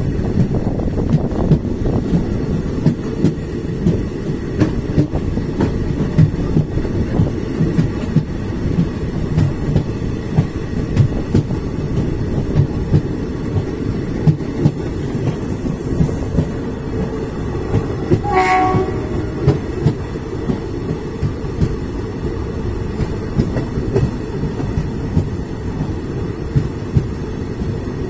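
Passenger train coach running slowly over the rails, heard from its open doorway: a steady rumble with repeated wheel clicks over the track. A short horn toot comes a little past the middle.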